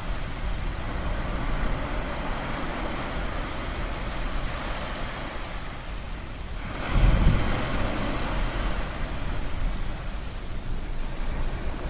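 Ocean surf washing steadily, with a louder wave breaking about seven seconds in, its deep rumble and hiss fading over the following seconds.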